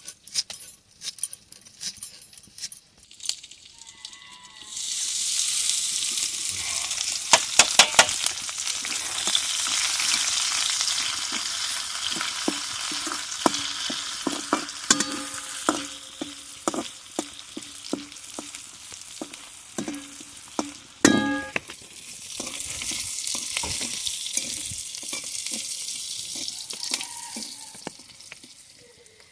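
Food sizzling as it fries in hot oil in a metal pan, with stirring and the clink and knock of a metal spatula against the pan. The sizzle starts about five seconds in, eases briefly after a loud knock a little past the middle, then picks up again before fading near the end.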